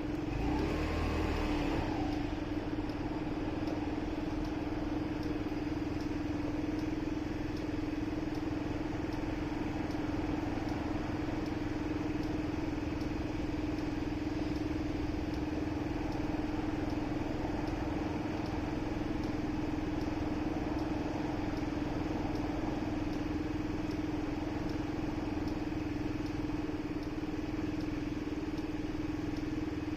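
Motorcycle engine running at a steady, unchanging pitch with road and traffic noise around it. There is a brief louder sound about a second in.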